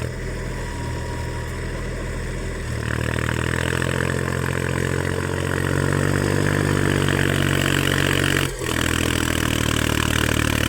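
Mahindra 275 tractor's diesel engine running steadily, then picking up speed about three seconds in and holding the higher revs while it works; a brief sharp dip in the sound comes near the end.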